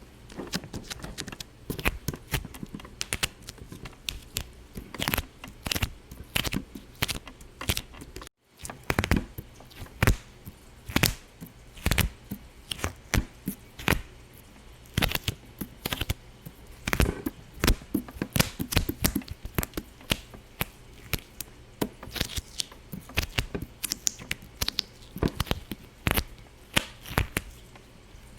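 Irregular sharp pops and clicks, several a second, varying in loudness, with a brief break in the sound about eight seconds in.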